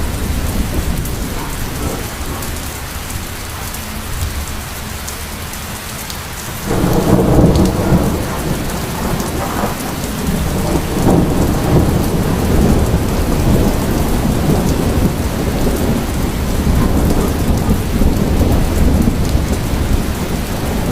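Heavy rainstorm: steady rain with a deep rumble underneath. It grows much louder and fuller about seven seconds in.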